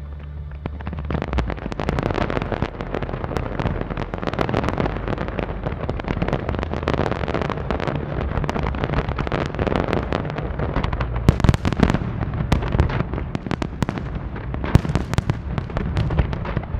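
Large aerial fireworks display: a dense, continuous barrage of shell bursts and crackling, building up about a second in, with the heaviest bangs near the middle and again near the end.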